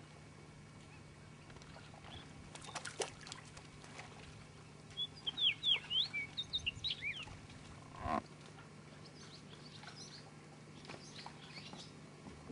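Birds chirping: a burst of quick, high, rising and falling calls about five to seven seconds in, with a few fainter calls later, over a faint steady hum.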